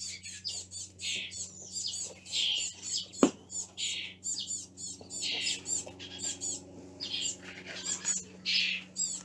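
Baby birds begging for food with rapid, repeated high-pitched chirps. There is a single sharp click about three seconds in, over a faint steady low hum.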